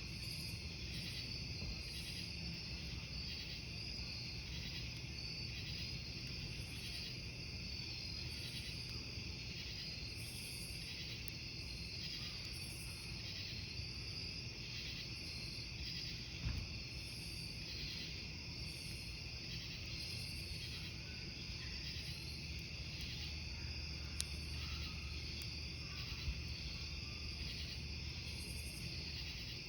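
Crickets chirping in a continuous pulsing chorus over the low, steady sound of a wood campfire, with a few sharp pops of burning wood in the second half.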